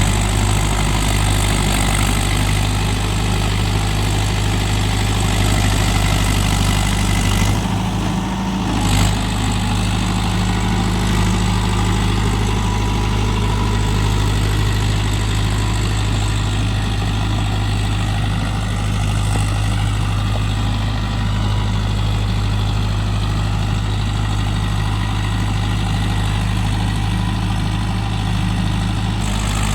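Mahindra Yuvo Tech+ 585 DI tractor's diesel engine running steadily, a low even hum that dips briefly about eight seconds in.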